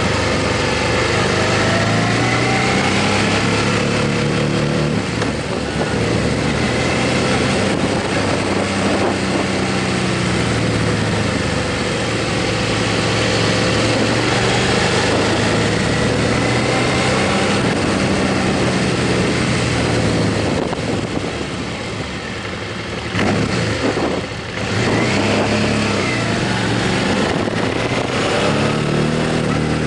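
Motorcycle engine running under way with wind rushing past, its pitch rising and falling with the throttle and gear changes. It eases off for a few seconds about three-quarters of the way through, then picks up again.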